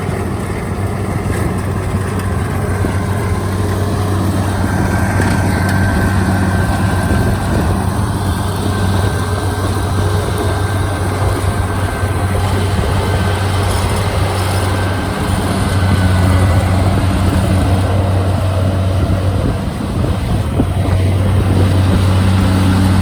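Kubota DC-73 rice combine harvester's engine running steadily under working load, with a faint high whine over it through the middle. The engine note dips briefly twice in the second half.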